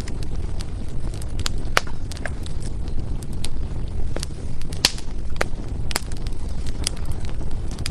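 Firewood burning, crackling with irregular sharp pops over a steady low rumble, the loudest pop about five seconds in.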